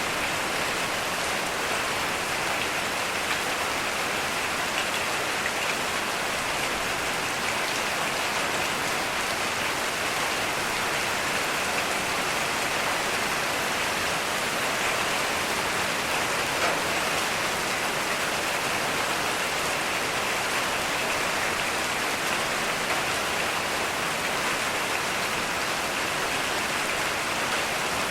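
Heavy rain falling steadily, a dense even hiss with scattered drop ticks on surfaces.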